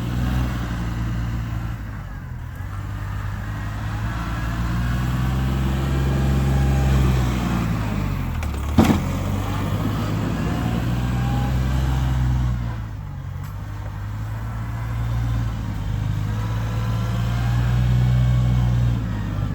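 Engine of a vehicle plowing snow, working back and forth: its note swells and eases in cycles of several seconds as it pushes and backs off. A single sharp clank comes about nine seconds in.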